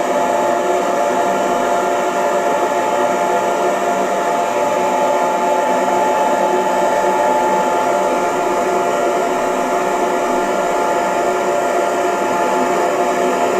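Hair dryer running steadily: an even rushing of air with a steady whine from the motor.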